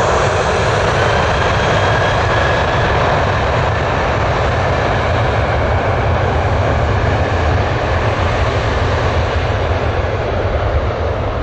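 Boeing 737 airliner's jet engines running loud and steady, a dense rushing noise with a faint whine over it near the start.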